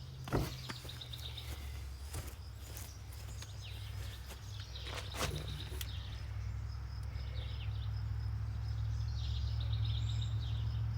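Birds chirping in short trills over a steady low rumble that grows louder toward the end, with a few sharp knocks or clicks in the first half.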